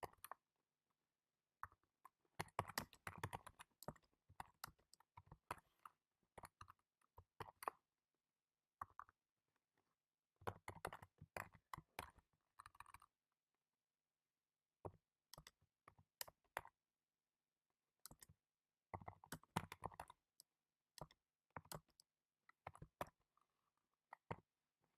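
Computer keyboard typing: quick runs of key clicks in bursts a second or a few seconds long, broken by silent pauses of a second or two.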